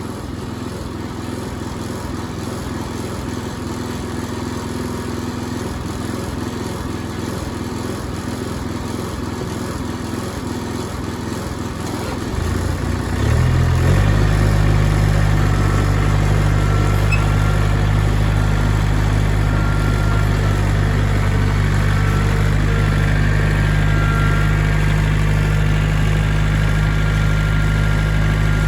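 Engine running steadily, then throttled up about halfway through to a louder, steady higher speed.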